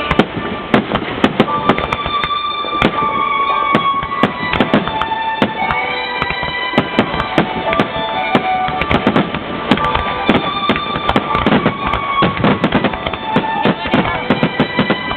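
Rapid, continuous fireworks bursts, many cracks and bangs in quick succession from a finale barrage, over music with long held notes.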